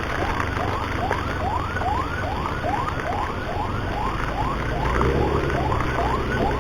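Emergency siren in a fast yelp: rising sweeps repeating about three times a second, over a low rumble of engine and wind from the moving motorcycle. A steady lower tone joins about five seconds in.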